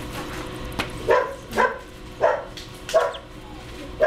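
A dog barking four times in quick succession.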